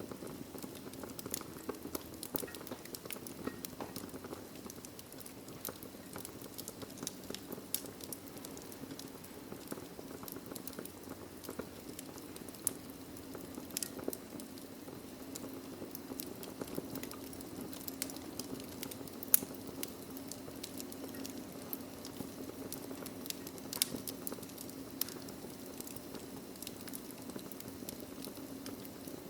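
Wood fire in a fireplace, logs crackling with irregular sharp pops and snaps over a steady low rumble of the flames, one pop standing out about two-thirds of the way through.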